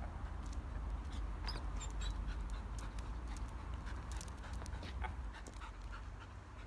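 A dog working close by, giving small short sounds with scattered clicks, over a steady low rumble.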